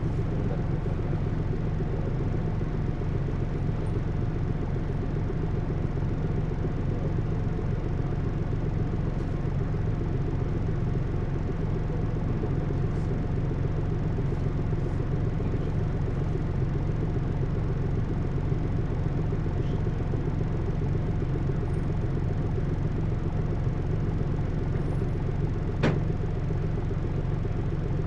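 Hino U-HT2MLAA city bus running steadily, heard from inside the bus as a low rumble with a faint steady whine above it and one sharp knock near the end. The uploader says this aging bus has begun to make abnormal noises.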